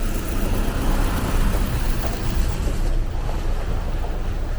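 Traffic noise from a snow-covered, slushy street: a steady low rumble under a rushing hiss that fades about three seconds in.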